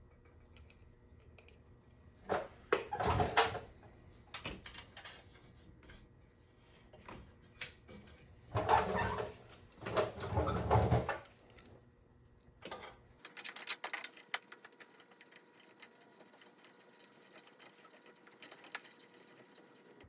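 Hands handling metal oil-line fittings and hardware: scattered clinks, ticks and rattles, with a few louder, irregular bursts of handling noise.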